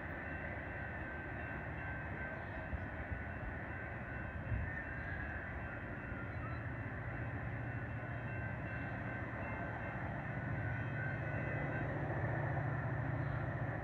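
Distant train rumble along the line, steady, with a low hum that swells over the last few seconds.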